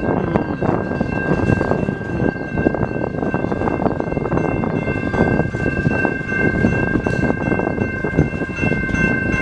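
Norfolk Southern auto-rack freight train rolling slowly past, its wheels and cars rumbling and clanking unevenly on the rails. A steady high whine of several tones runs over the rumble throughout.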